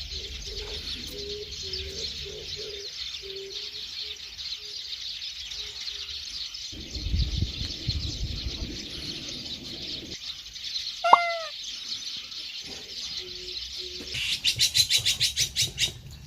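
Birds chirping steadily, with short low cooing notes repeated through much of it. About two thirds of the way in comes a single short call, the loudest sound. Near the end there is a fast rhythmic trill.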